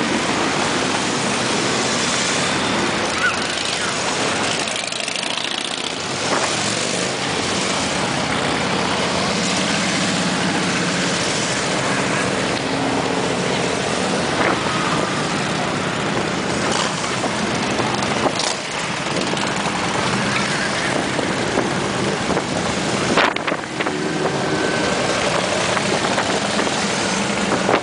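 A procession of many motorcycles passing one after another in a steady stream, their engines making continuous mixed engine noise.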